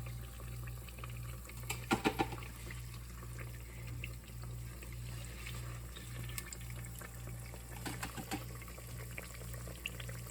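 Hot oil bubbling in a deep fryer as battered desserts fry, with a few short knocks or clinks about two seconds in and again around eight seconds.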